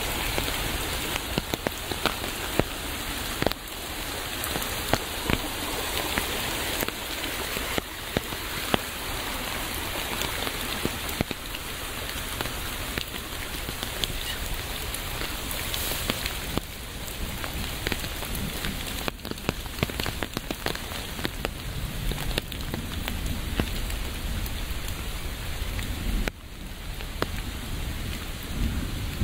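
Steady rain falling, an even hiss with many individual drops ticking on a surface. The level dips briefly near the end.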